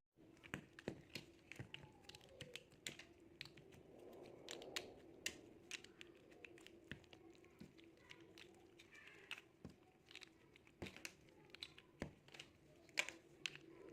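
Small plastic building bricks clicking and tapping as they are handled and pressed together, a scatter of light sharp clicks at irregular intervals over a faint steady hum.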